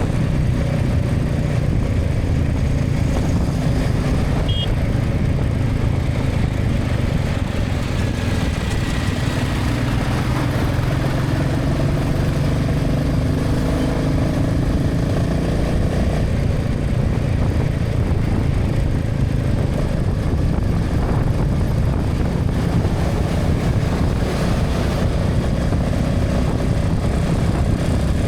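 Motorcycle running steadily along a highway, heard from the rider's camera: a continuous low rumble of engine and road noise, with other traffic passing.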